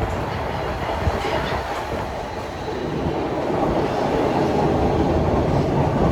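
Toronto subway train running on the rails, a steady rumble that grows louder about three seconds in.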